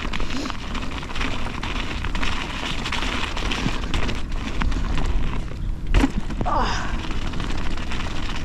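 Mountain bike descending a wet trail: a steady rumble of wind on the microphone and tyres and bike rattling over rough ground, with a sharp knock about six seconds in.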